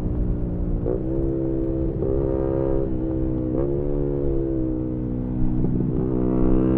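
Onboard sound of a 2018 Yamaha MT-125's single-cylinder 125 cc four-stroke engine through a GPR aftermarket exhaust, running under way with its pitch stepping and climbing several times as the rider works the throttle and gears, over a low rumble of wind.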